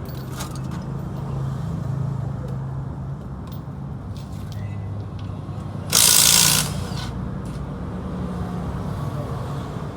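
Single-cylinder motorcycle engine running steadily at a low speed, with a loud, short hiss about six seconds in.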